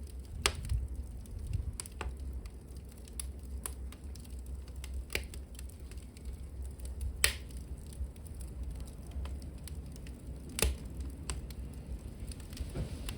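Burning wood in a fireplace crackling, with irregular sharp pops every second or two, the loudest about half a second, seven seconds and ten and a half seconds in, over a steady low rumble of the fire.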